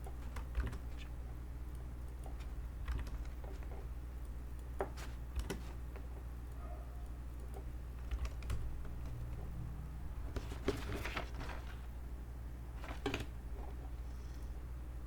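Computer keyboard typing: scattered single keystrokes, with short runs of keys about ten seconds in and again around thirteen seconds, over a steady low hum.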